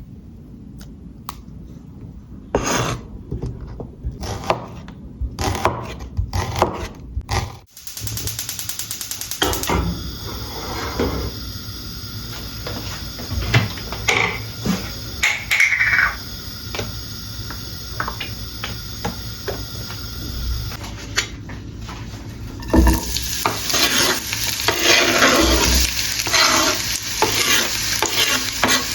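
Cooking in a frying pan. First come separate knocks and clinks of utensils. About eight seconds in, a steady sizzle starts suddenly as food goes into the hot pan. Stirring and scraping run on, and the frying grows louder and busier near the end.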